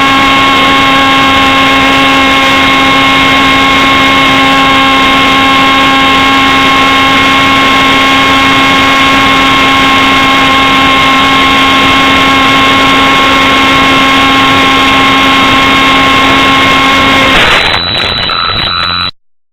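RC jet's engine running loud and steady, a whine of unchanging pitch over a rushing noise. Near the end the sound changes abruptly and then cuts off.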